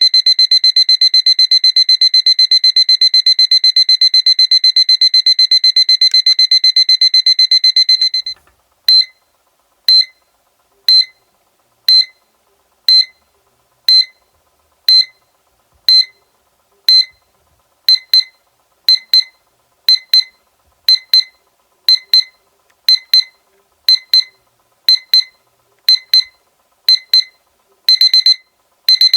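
Seiko alarm clock's electronic beeper sounding a high-pitched alarm. Rapid continuous beeping stops about eight seconds in; after a short gap it restarts as single beeps once a second, which become double beeps partway through and quicker clusters near the end, the escalating pattern of a progressive alarm.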